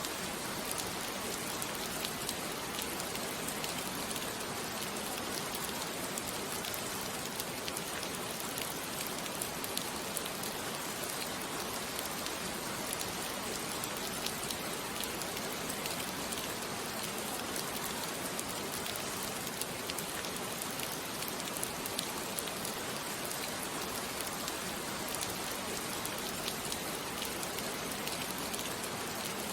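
Steady rain falling, an even patter with scattered drop ticks, laid under the narration as an ambient backdrop.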